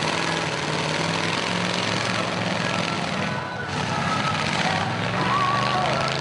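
Engines of many demolition derby cars and trucks running and revving together in a dense, loud racket, easing off briefly about halfway through.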